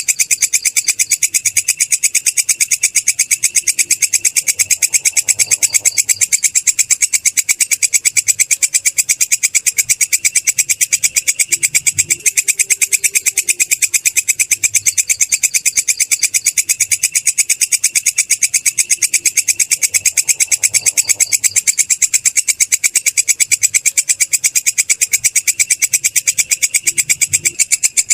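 Belalang kecek grasshopper calling: a loud, high-pitched chirring made of rapid, evenly spaced pulses, several a second, going on without a break.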